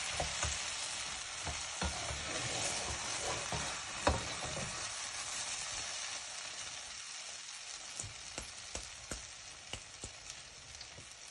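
Chicken mince and moong dal sizzling in a non-stick wok while a wooden spoon stirs and folds it, with scrapes and knocks of the spoon against the pan; the sharpest knock comes about four seconds in. A steady hiss that eases off a little in the second half, as the last of the cooking water is cooked off.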